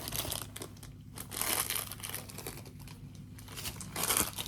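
Plastic packaging crinkling and rustling in irregular bursts as items are handled and pulled from a bag.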